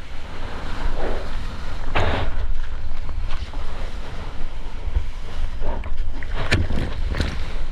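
Wind buffeting the GoPro's microphone over the sound of ocean water, with a few brief louder splashes about two seconds in and again near the end.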